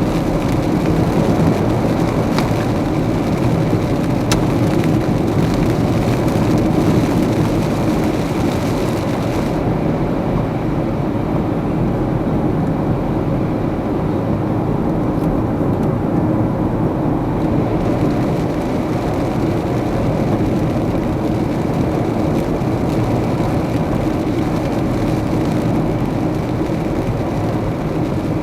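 Car driving through heavy rain: steady engine and road noise with tyres hissing on the wet road. The hiss fades for several seconds midway, then comes back, and a few faint ticks are heard.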